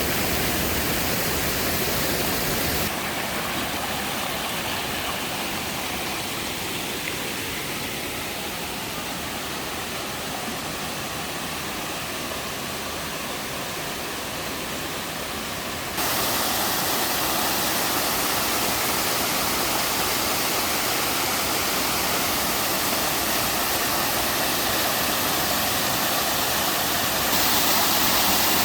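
Water pouring down a small three-tier mountain waterfall, a steady rushing. It turns abruptly softer about three seconds in, then louder and brighter about halfway through and again near the end.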